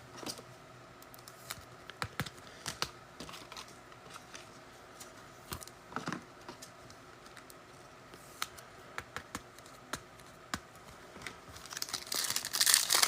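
Trading cards being handled, with scattered light clicks and slides of card against card. About twelve seconds in, a pack wrapper starts crinkling and tearing as the next pack is opened.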